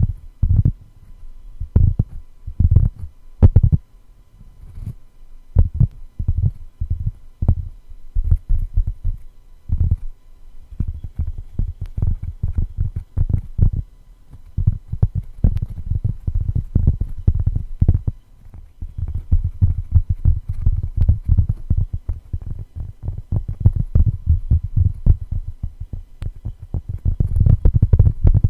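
Tapping on a cork board: dull, low taps, spaced apart at first, then turning into fast, almost continuous tapping a little before halfway through.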